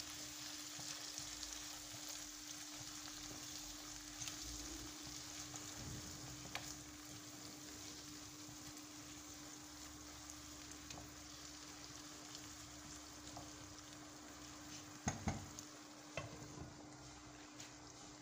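Onions, green peppers and chopped tomatoes sizzling in oil in a frying pan while a silicone spatula stirs them, the sizzle slowly fading. A couple of sharp knocks near the end as a glass lid goes on the pan.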